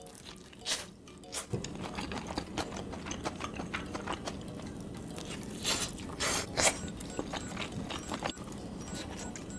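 Close-miked eating: crisp bites and chewing, with a run of clicks and crackles and a few louder crunches about six seconds in.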